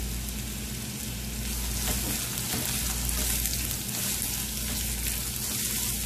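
Thinly sliced raw potatoes and onions sizzling steadily in hot oil in a nonstick pan, stirred with a silicone spatula.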